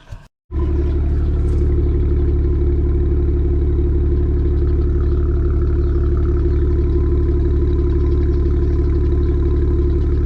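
Car engine idling steadily, loud and unchanging in pitch, starting abruptly about half a second in.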